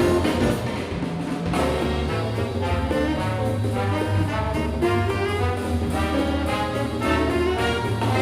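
A junior jazz big band playing live: the brass section holds sustained chords over a moving bass line, and the full ensemble comes in more strongly about one and a half seconds in.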